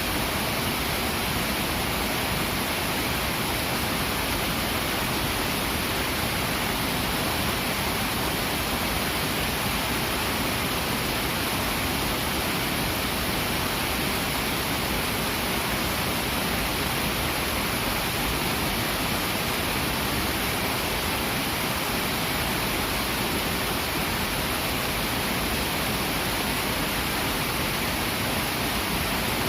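Fast-flowing river rushing steadily over rocks, a constant full, even roar of water.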